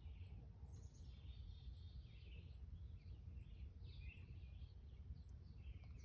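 Faint birds chirping in scattered short calls over a low, steady rumble of outdoor background noise.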